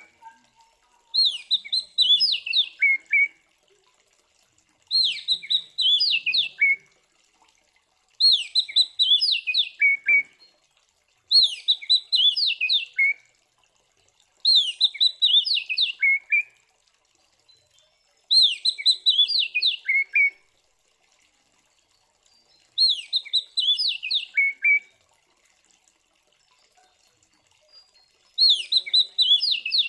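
Oriental magpie-robin (kacer) singing a loud, fast phrase of sweeping whistled notes about two seconds long. The phrase is repeated eight times with short pauses between.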